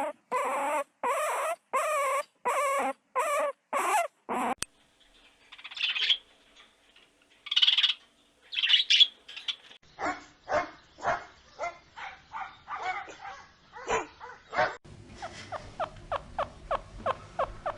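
A run of different animal sounds. First comes a series of about nine short pitched calls, about two a second, like a dog yelping. Then a few hissing bursts, then quick sharp calls that speed up to about four a second near the end.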